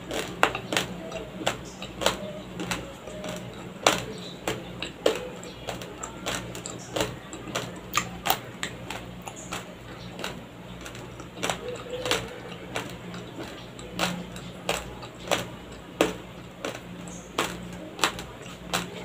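Raw, uncooked white rice grains cracking and crunching between the teeth as they are chewed: sharp, irregular cracks, roughly two or three a second. A low steady hum runs underneath.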